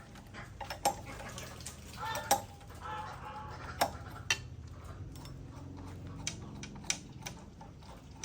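Scattered sharp metallic clinks and taps of tools and metal engine parts being handled while a diesel tiller is worked on, at irregular intervals.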